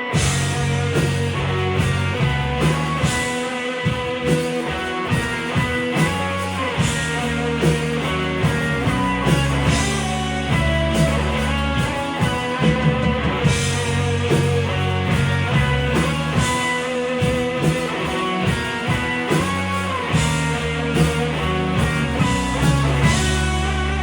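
Live rock band playing: electric guitar over bass and a drum kit, the band coming in together at the start. Near the end the drums stop, leaving held guitar and bass notes.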